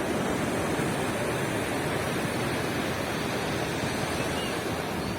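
Ocean surf washing onto a beach, a steady rushing wash of waves with no distinct breaks.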